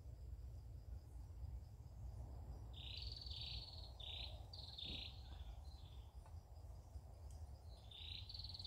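A bird calling in runs of short, high notes: about five quick notes around three seconds in, and another run starting near the end. Under them is a faint steady insect trill and a low rumble.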